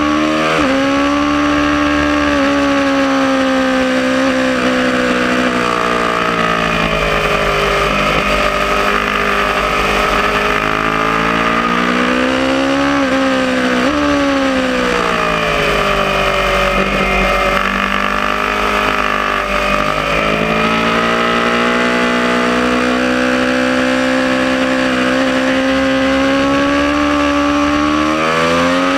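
Aprilia Tuono sport motorcycle engine at track speed, its note repeatedly climbing under acceleration and falling away under braking, with sharp drops about half a second in and again near the middle, over a steady low rush of wind.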